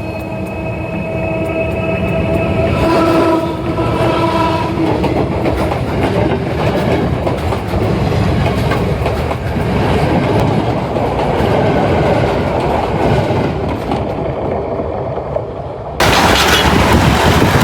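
A train passing right over a phone lying on the track. A steady horn sounds for the first few seconds, then the loud rumble and clatter of the wheels and cars rolling overhead. The sound changes suddenly near the end.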